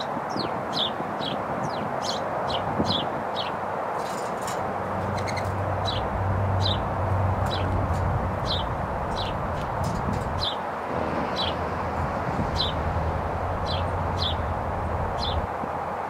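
A wild bird calling repeatedly: short, high, sharply falling chip notes, about two a second, over a steady background hiss.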